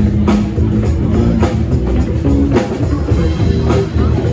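Live band playing rock music: guitar over a steady drum beat, with a heavy low end.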